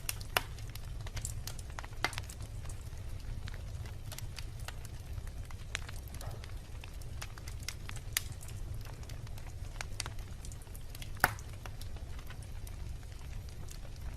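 Wood bonfire burning with a steady low rumble and scattered sharp crackles and pops, the loudest pop about eleven seconds in.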